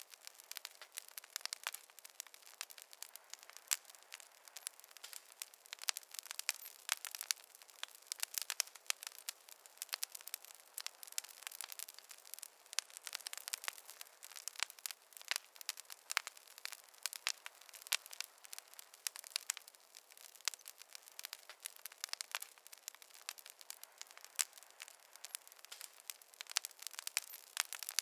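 Campfire crackling: a continuous, irregular run of small sharp pops and snaps from the burning wood.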